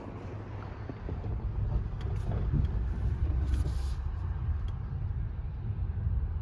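Low, steady rumble of a car on the move, mostly road and tyre noise, with a few faint clicks.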